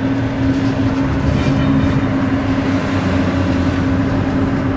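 Cab interior of a class 141 Pacer railbus under way: the underfloor diesel engine running with a steady humming drone over the low rumble of the wheels on the track.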